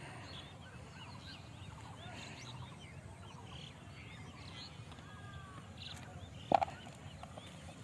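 Many short bird calls chirping over a steady low background rumble, with one brief loud sound about six and a half seconds in.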